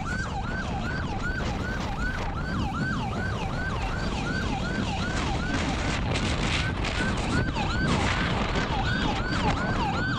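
Police siren on its yelp setting: a fast repeating wail, about two and a half sweeps a second, each rising quickly and falling back, over steady road and engine noise.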